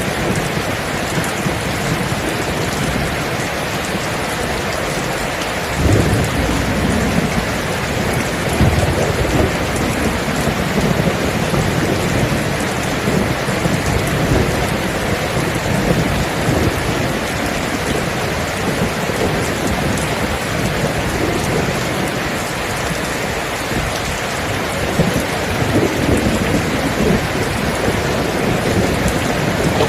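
Steady rain with thunder. The thunder starts rumbling about six seconds in and rolls on in low swells.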